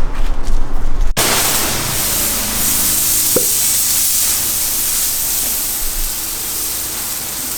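Hot-water pressure washer spraying a high-pressure jet onto concrete: a loud, steady hiss that starts abruptly about a second in, over the steady drone of the machine's engine.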